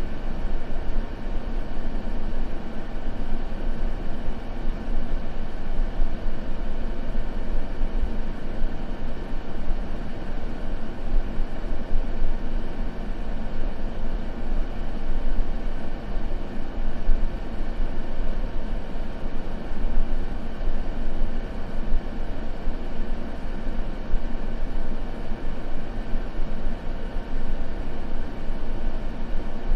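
Steady white-noise sleep track, a continuous even hiss weighted toward the low end.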